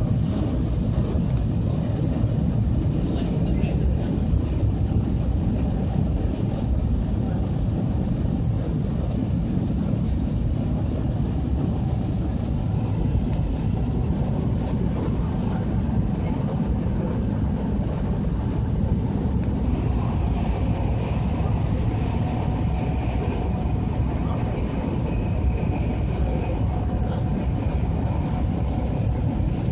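Cabin noise inside an E2 series Shinkansen train running at speed: a steady, dense rumble of wheels on rail and air rushing past the car body. A faint higher whine joins in past the middle.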